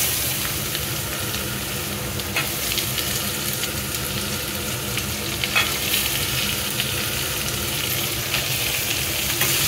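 Diced beetroot and potatoes sizzling in hot oil in a stainless steel kadhai while a steel spatula stirs them, scraping the pan, with a few sharp taps of metal on metal.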